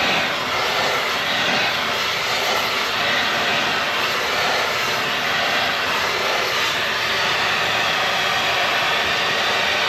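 A machine running steadily: a loud, continuous rushing noise with no rhythm or distinct strokes.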